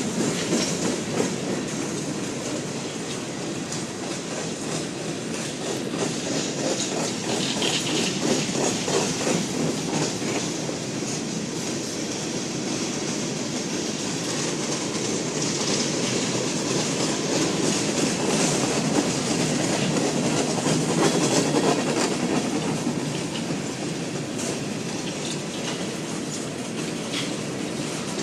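Freight train cars rolling steadily past, steel wheels clicking over the rail joints, with a light wheel squeal now and then.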